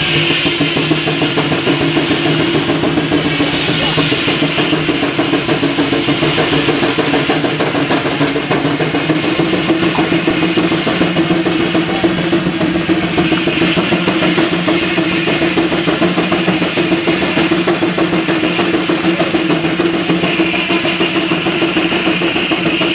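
Sawmill machinery running steadily: an engine drone with a high whine that comes and goes several times.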